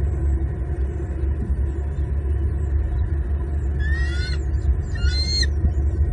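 Two short, high, squealing calls from a bald eagle at the nest, the first about four seconds in and the second about a second later, over a steady low rumble on the nest-cam microphone.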